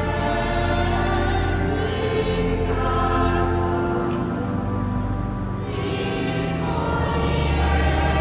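Church choir singing slow, held chords in several parts, with a steady low note sustained underneath.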